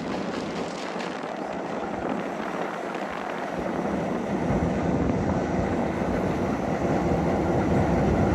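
A train running on the track: a steady mechanical rumble and rail noise, with a deeper rumble joining about halfway through and the sound slowly growing louder.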